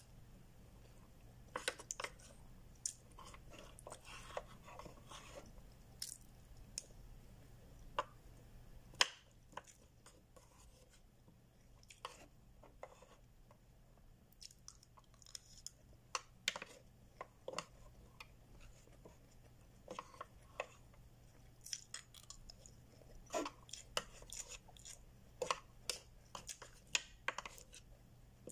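Close-up chewing of food, with irregular sharp clicks and scrapes of a plastic spoon and fork against a food container.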